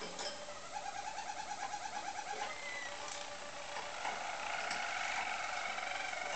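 Roller canary singing its low, rapid rolling trills, one roll after another, with a short whistled note about two and a half seconds in and a higher roll starting about four seconds in.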